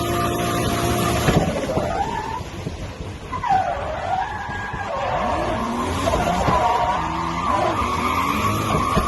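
Car engine running hard with tyres squealing in wavering, bending tones, as in a drift or burnout. A steady engine note in the first second changes about a second in.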